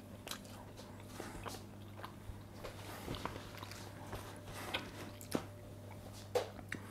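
A person chewing a mouthful of salt-baked parsnip with quiet mouth sounds and scattered soft clicks, over a low steady hum.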